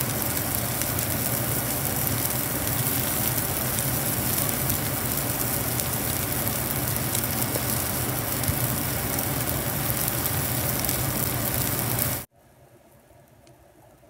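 Golden chanterelle mushrooms with sliced onion and chilies sizzling and bubbling hard in oil and a little water in a wok, a steady dense crackling hiss. It cuts off abruptly near the end, leaving only a much fainter sound.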